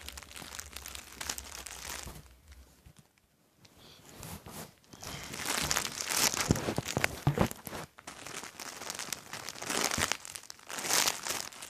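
Crinkling and rustling of plastic as a squishy toy is handled and squeezed close to the microphone, in uneven surges with a quiet spell about three seconds in.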